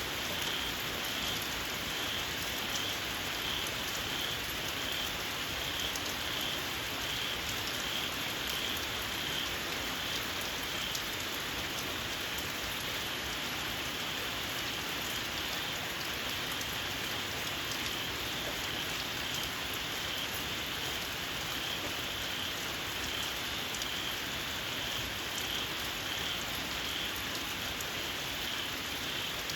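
Steady rain falling, with small frogs calling in it: a shrill call pulsing evenly about twice a second.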